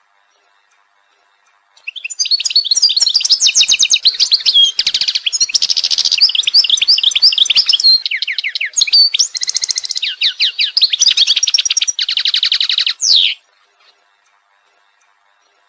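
A songbird singing one long, varied song of rapid trills and quick chirps, high-pitched, starting about two seconds in and stopping short after about eleven seconds.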